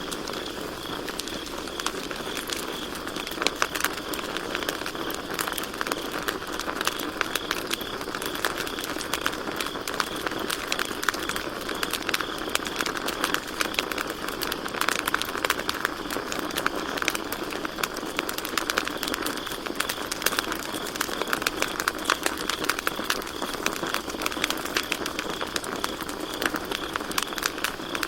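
Campfire crackling with a steady run of irregular pops and snaps, over crickets chirping steadily in a high, pulsing trill.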